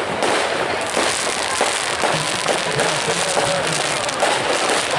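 Fireworks going off in a display: a dense, continuous crackle of many quick bangs and pops.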